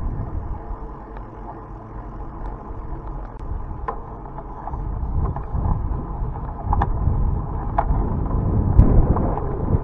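Wind rumbling on the microphone of a moving bicycle. It eases off for a few seconds and then swells again, with a few short clicks and rattles scattered through the second half.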